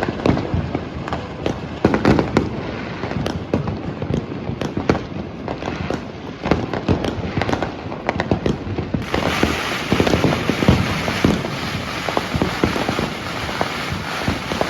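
New Year's fireworks and firecrackers going off all around in a dense, irregular barrage of bangs and crackles. About nine seconds in the sound turns hissier and brighter, with the popping going on.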